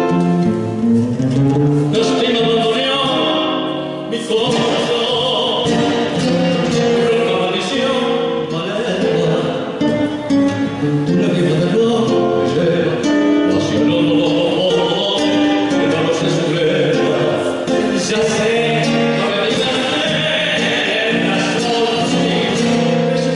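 A tango song: a male singer with guitar accompaniment.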